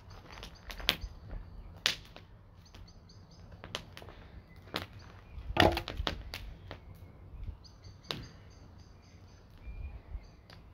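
An outdoor axe chopping wood: a series of sharp, irregularly spaced strikes, the loudest a little past the middle.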